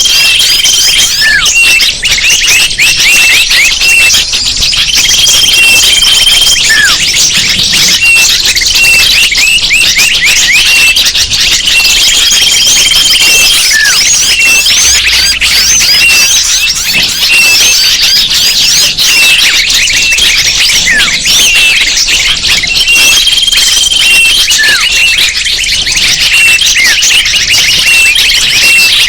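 Bird-luring recording: a dense chorus of many small birds chirping and calling at once, with a short whistle note repeating about once a second and a longer held whistle about every six seconds.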